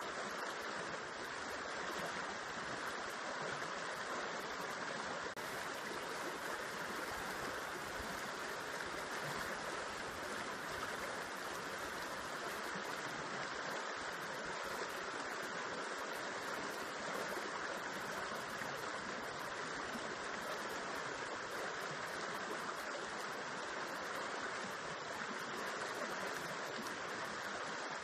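River water spilling over rocks into a pool, a steady rushing of flowing water.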